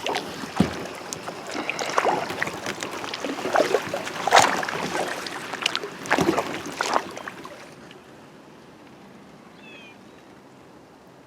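Kayak paddle strokes splashing in the water, with sharp splashes and knocks. The paddling dies away about eight seconds in, leaving the kayak gliding quietly.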